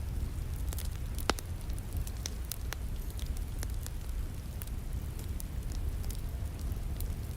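Wood fire crackling, with scattered sharp snaps and one louder pop about a second in, over a steady low rumble.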